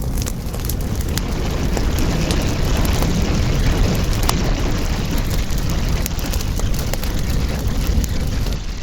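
Wood fire burning: a steady rushing noise with frequent sharp crackles and pops.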